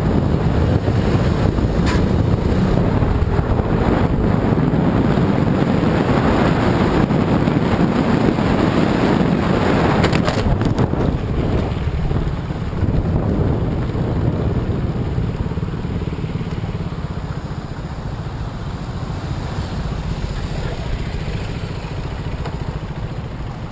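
Vehicle driving noise: a steady rumble and hiss of engine, tyres and wind, loudest in the first half and slowly fading, with a few clicks or knocks about ten seconds in.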